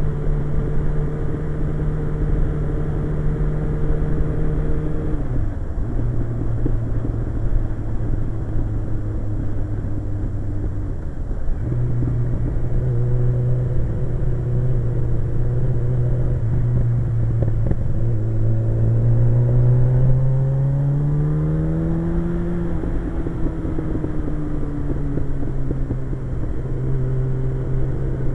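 Suzuki GSX-R1100 inline-four engine running under way, with a steady rushing noise beneath it. Its pitch steps down about five seconds in, climbs for several seconds past the middle as it accelerates, then eases back down.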